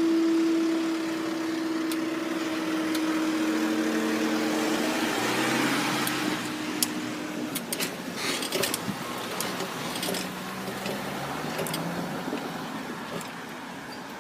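Road vehicles at a level crossing. A steady engine-like hum runs until about seven and a half seconds in and then stops, followed by a fainter mix of traffic noise with a few clicks.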